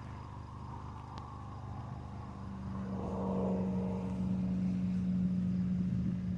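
Steady low hum of a running motor, with a droning tone coming in about two seconds in and getting louder a second later.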